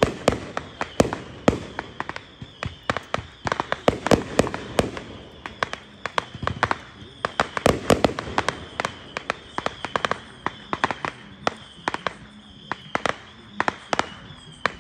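Aerial fireworks bursting overhead: a rapid, irregular string of sharp bangs and crackles, several a second, thinning out near the end.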